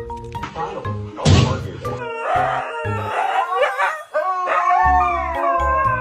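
A dog howling in drawn-out calls that waver and slide down in pitch through the second half, over background music with a steady bass beat.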